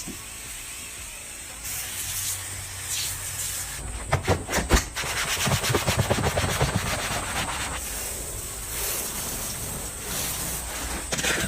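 Rubbing and sanding on a car's body, changing in character every few seconds, with a cluster of sharp knocks about four seconds in.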